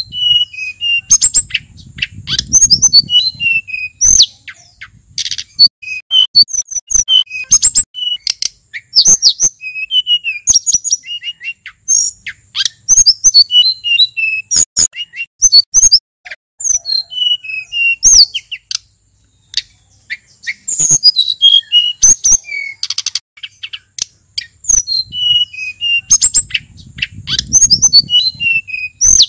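A male sulingan gunung songbird singing a fast, varied song of high chirps, short rising and falling whistled notes and sharp clicks, phrase after phrase with brief gaps. A faint low rumble sounds twice under the song.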